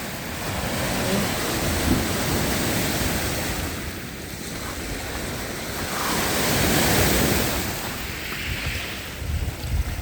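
Lake waves washing onto the beach, swelling and falling back in two slow surges, with wind buffeting the microphone toward the end.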